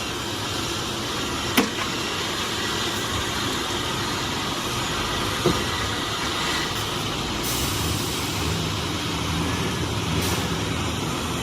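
Heavy truck's diesel engine running steadily, with two short sharp knocks, one early on and one about halfway through.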